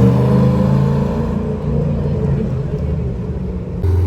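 Large engine running with a steady low drone, its pitch easing down slightly after the start. Near the end it cuts abruptly to a deeper, louder engine note.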